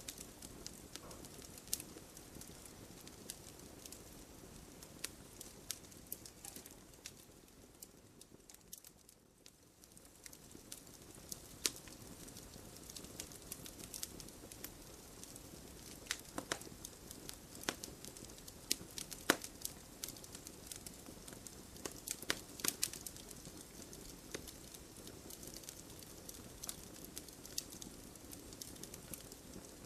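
Campfire of burning wood crackling, with irregular sharp pops and snaps over a steady low hiss of the flames, briefly softer about nine seconds in.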